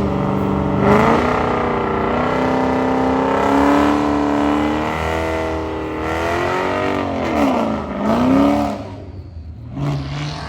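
Dodge Challenger engine revving, its pitch rising and falling in long sweeps, with a quick drop and climb back up about eight seconds in before the sound falls away.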